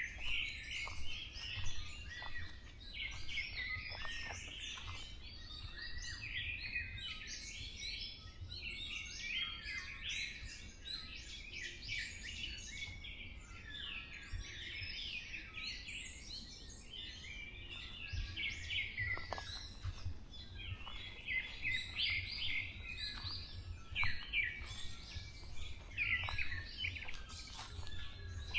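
Chorus of many forest songbirds chirping and trilling at once, calls overlapping without a break, over a steady low rumble.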